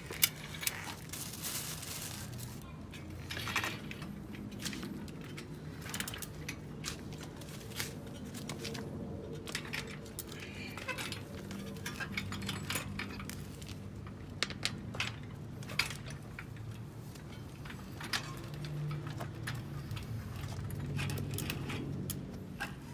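Irregular light metallic clicks, taps and clinks of hand tools and bicycle parts being handled, with a sharp click right at the start.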